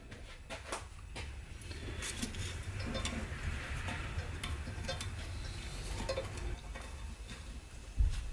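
Scattered light metallic clicks and clinks of tools and steel parts being handled during work on an automatic transmission, over a low steady rumble, with one louder thump near the end.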